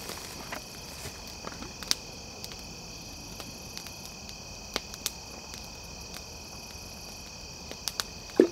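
Steady chorus of insects such as crickets, a continuous high trilling, with a few sharp clicks or snaps scattered through, the loudest just before the end.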